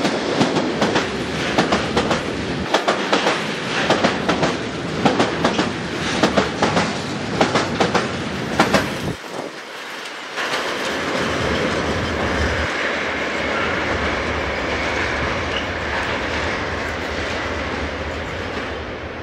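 Freight train of tank wagons passing close by, its wheels clattering rapidly over the rail joints. About nine seconds in, the last wagon passes and the clatter stops suddenly, then a steady rumble with a faint high hum follows as the train moves away and slowly fades.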